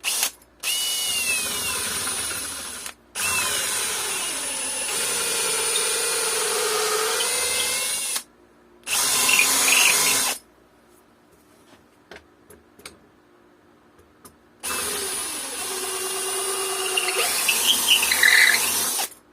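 Electric drill boring a hole through a plywood board, running in several stretches of a few seconds with pauses between, its motor pitch dipping and rising as it bites into the wood.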